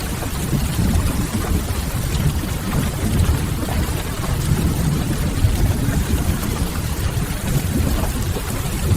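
Steady rain mixed with the faint crackle of a wood fire, over a deep, even rumble.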